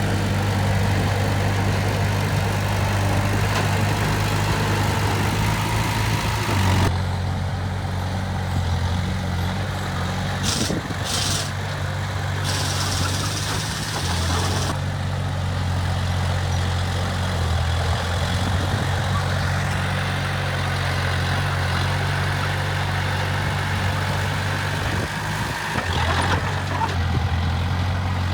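Heavy diesel engines of earthmoving machinery running steadily, a low hum whose note shifts a few times.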